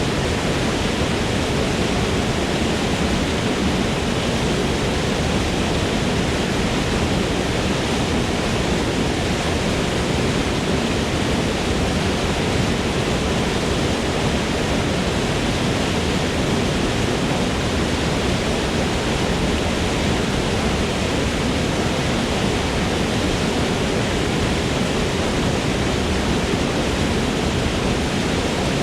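Waterfall in a forest, water pouring and splashing in a steady, unbroken rush.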